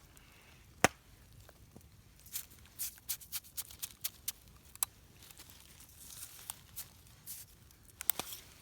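Wood fire of wet wood crackling, with scattered sharp pops: a loud one about a second in, a run of small ticks in the middle, and another loud pop near the end.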